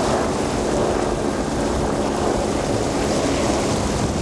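Small boat's outboard motor running steadily, under a rumble of wind on the microphone.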